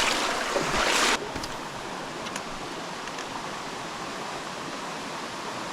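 Creek water running steadily. For about the first second there is a louder noisy rush, then a few faint clicks over the steady flow.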